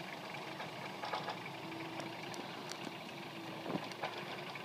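Off-road 4x4 engine running steadily, with a faint steady whine and a few soft knocks.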